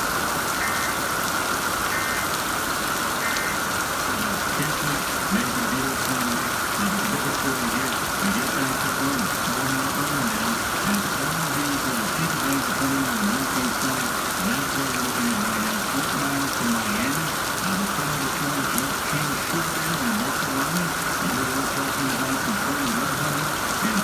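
Steady rain from Hurricane Irma falling throughout. There are three short beeps in the first few seconds. From about four seconds in, a low pitched sound rises and falls underneath the rain.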